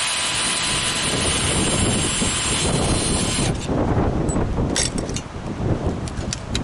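A power tool running with a steady high whine and hiss, cutting off about halfway through. After it stops, wind rumbles on the microphone and a few light metal clinks follow.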